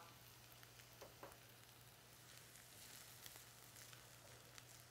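Faint sizzle of minced onion and garlic in a cast-iron skillet, still frying on the pan's stored heat after the gas flame is turned off, with a couple of faint clicks about a second in.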